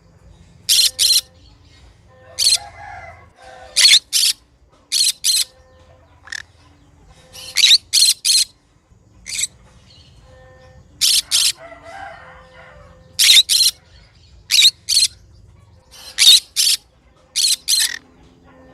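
Green conure screeching in short, shrill calls, mostly in pairs and threes, with a group every second or two.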